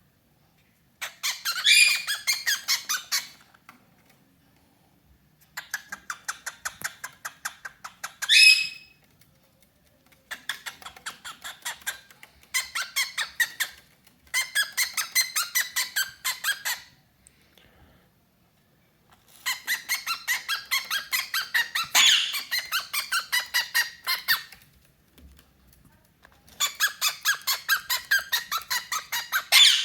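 Cockatiel chattering in bouts of rapid squeaky pulses, several seconds each with pauses between, and a short rising whistle at the end of the second bout.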